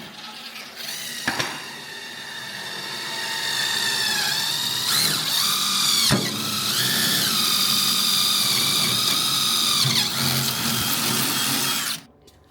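Electric power drill running in spells, its motor whine rising and falling in pitch as the trigger and load change. A couple of sharp clicks come in between, and the whine cuts off suddenly near the end.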